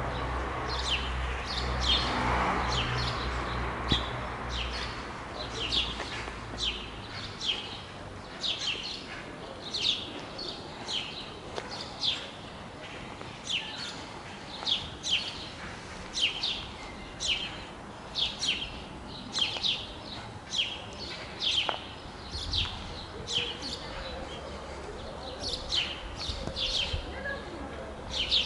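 Birds chirping over and over in short, high calls that slide downward, about one or two a second. A low rumble sits under them for the first several seconds and comes back briefly about 22 seconds in.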